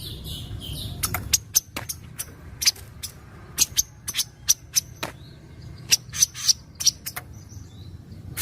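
Kaso-kaso bird giving a loose, irregular series of short, sharp chip notes, about two or three a second with pauses between clusters.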